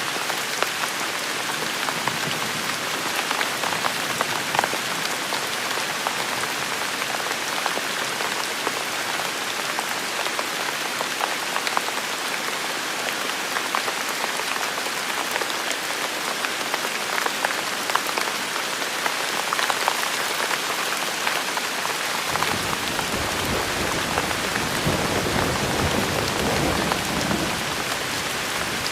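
Steady rain falling on hard surfaces, with many individual drops ticking close by. About three quarters of the way in, a low rumble comes in under the rain for several seconds, then fades.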